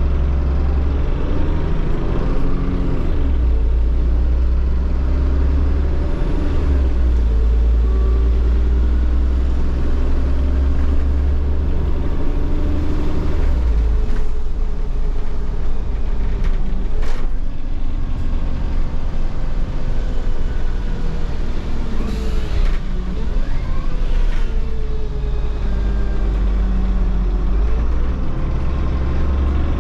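Solaris Urbino 15 city bus with a MAN diesel engine and Voith automatic gearbox, heard from the empty passenger cabin while driving: a deep steady engine drone with whines rising and falling as the bus speeds up, shifts and slows. A single sharp click comes about 17 seconds in.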